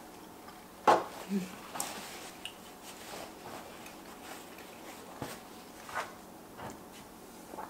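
Mouth sounds of a person chewing a mouthful of baked macaroni and cheese, with a sharp click about a second in and a few fainter clicks later.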